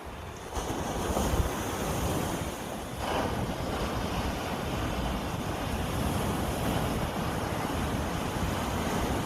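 Sea waves washing onto the shore, a steady rush that grows louder about half a second in and swells again around three seconds in, with wind buffeting the microphone.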